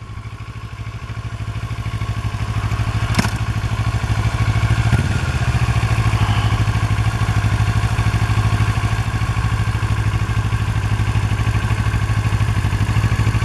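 Kawasaki Ninja 650R's parallel-twin engine running, getting louder over the first few seconds and then holding steady. A sharp click is heard about three seconds in.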